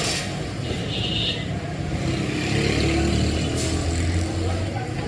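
A motor running steadily, its low hum swelling in the middle. There is a click at the start and a brief high-pitched tone about a second in.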